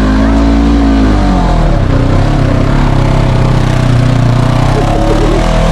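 Side-by-side UTV engine working hard under load while the machine is driven through a difficult muddy spot. The revs swell up and drop back in the first second or so, then are held steady.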